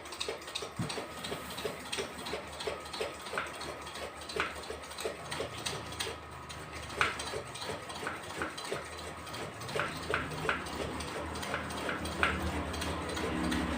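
Hand air pump of an AIDA 1350 pressure lantern being worked in quick, even strokes, about two to three a second, pressurising the kerosene tank before lighting. A low rumble builds under the strokes toward the end.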